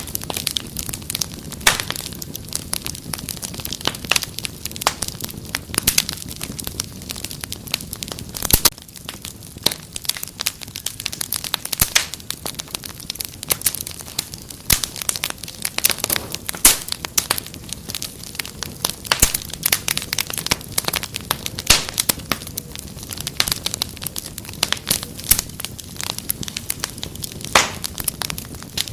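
Wood fire crackling, with frequent sharp pops and snaps at irregular intervals over a low steady rumble of flame.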